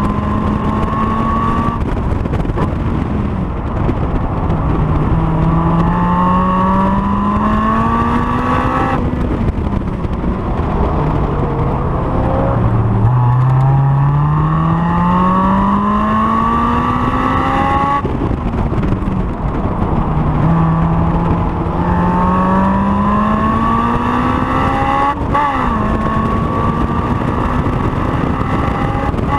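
Honda S2000's four-cylinder engine at full throttle, revs climbing through the gears and dropping sharply at each upshift. Around the middle the revs fall away as it slows for a corner, then climb steadily again.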